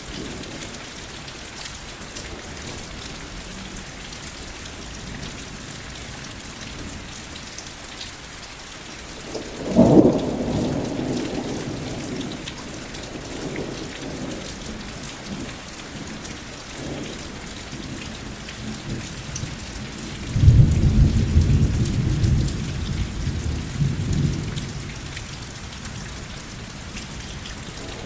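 Steady rain falling, with two thunderclaps: a sharp crack about ten seconds in that rumbles away, then a longer deep rolling rumble from about twenty seconds in.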